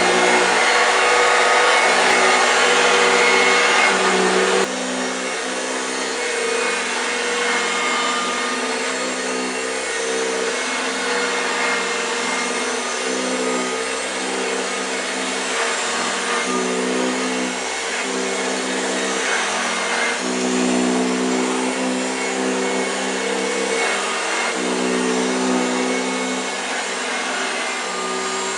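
A 1965 Hoover Junior 1334A upright vacuum cleaner running steadily, its motor humming. The sound drops in level about four and a half seconds in and wavers slightly after that.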